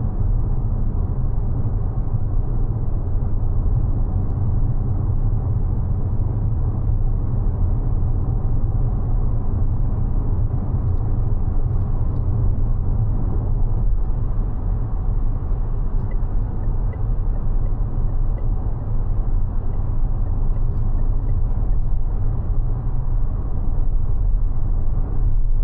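Steady low rumble of road and tyre noise from a Mazda 6e electric sedan driving at an even pace.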